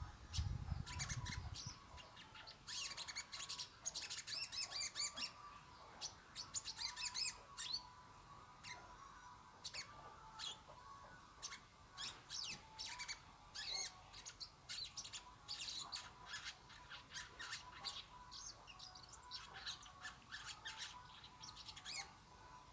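Songbirds chirping: rapid short, high notes in clusters, densest in the first few seconds, over a faint steady tone. A brief low rumble sounds at the very start.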